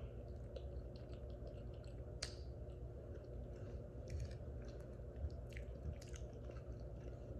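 A person chewing a mouthful of food close to the microphone, with soft wet smacks and small clicks, over a steady low background hum.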